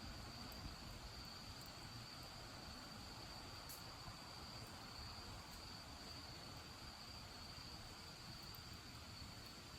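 Insects trilling steadily at one high pitch, with a few faint crackles from a bonfire.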